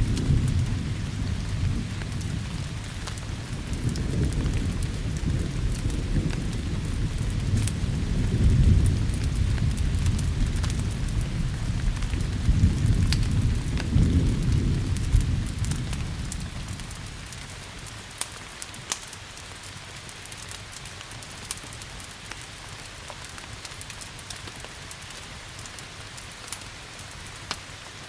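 Rolling thunder rumbling in several swells, then fading away about two-thirds of the way through, over steady rain. Scattered sharp crackles and pops from a wood fire run throughout.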